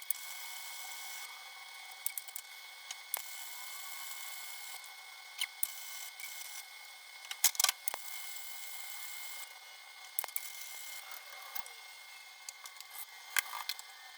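Scattered sharp clicks and light knocks of tools and parts being handled over a steady hiss, with a loud cluster of knocks about seven and a half seconds in and another near the end.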